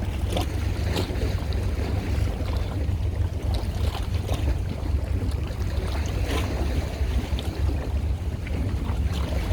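Steady low rumble with wind buffeting the microphone, over a noise of water with scattered small splashes and crackles.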